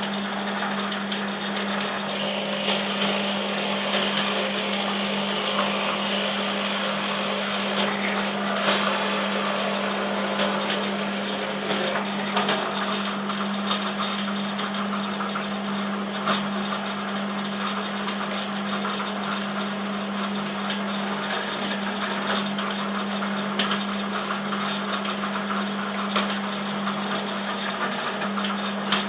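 Electric drill running steadily, boring 12 mm holes through quarter-inch cherry board with a Forstner bit. A constant motor hum sits under the cutting noise, with a few sharp clicks.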